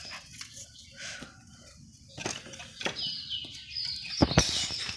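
Birds calling in the background, with a few sharp clicks or taps, the loudest just after four seconds in.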